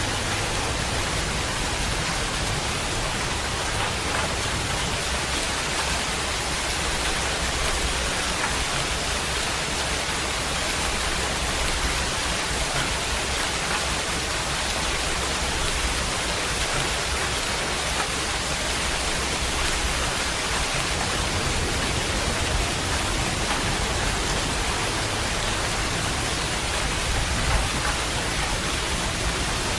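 Steady rain falling, an even hiss without breaks, with a low rumble underneath at times.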